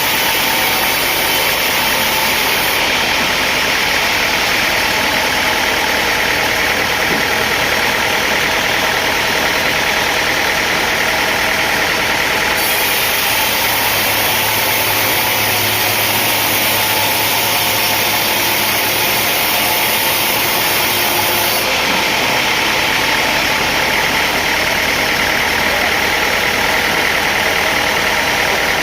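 Sawmill machinery running with a steady engine drone. The sound changes abruptly three times.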